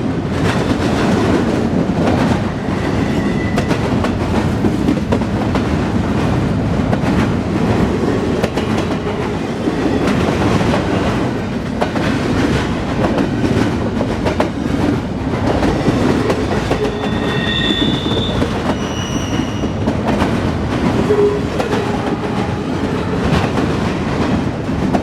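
Norfolk Southern intermodal freight cars rolling past at track level: a steady rumble with the clickety-clack of wheels over rail joints, and a few short high squeals about two-thirds of the way through.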